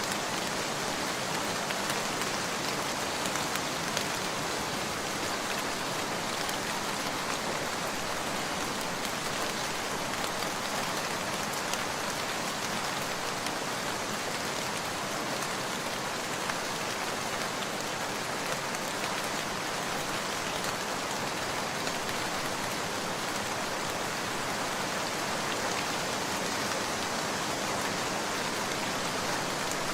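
Steady rain falling: an even, constant hiss with faint scattered ticks.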